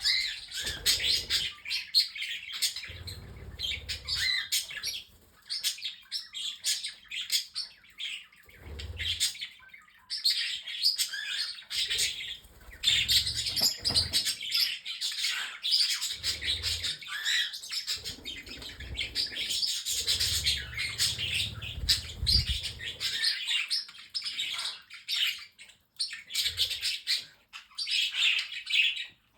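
A mixed flock of pet budgerigars, cockatiels and parrotlets chattering and chirping continuously, many birds at once. Low dull thuds come every few seconds under the chirping.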